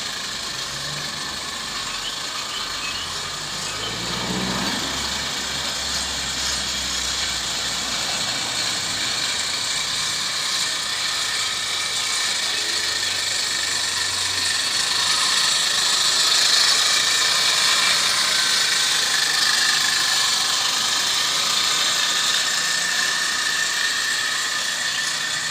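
Gauge 1 live-steam model tram running on its Mamod oscillating-cylinder engine: a steady hiss of steam and exhaust, growing louder a little past halfway.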